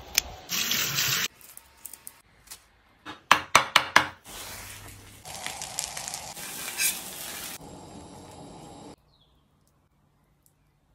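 Kitchen sounds in quick succession: a short burst of noise, a rapid run of about six sharp knocks, then cabbage wedges sizzling in a cast-iron pan for several seconds.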